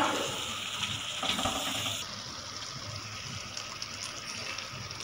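Chicken and tomato masala sizzling in coconut oil in a large pot, a steady hiss, with a spoon stirring through it at first. The hiss drops a little about two seconds in.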